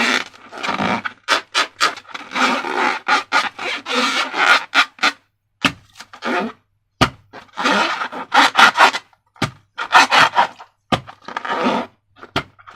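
Hands working slime and rubber balloons: irregular bursts of rubbing and scraping, broken by short pauses, with a few sharp clicks.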